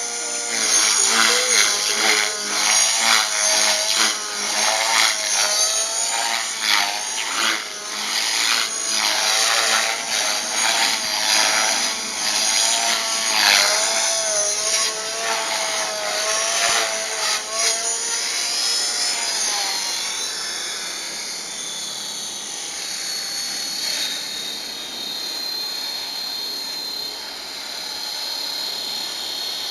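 Small 250-size RC helicopter flying 3D aerobatics: its motor and rotor whine swings up and down in pitch as it manoeuvres. About twenty seconds in it settles to a quieter, steadier high whine.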